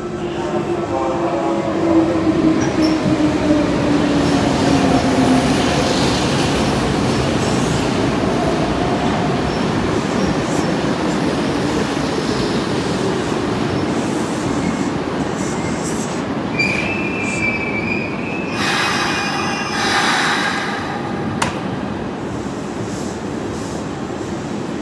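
Hanshin electric train running, with a loud steady rush of wheels on rail. A motor whine falls in pitch over the first five seconds, and a brief wavering wheel squeal comes about two-thirds through, followed by a louder rushing stretch.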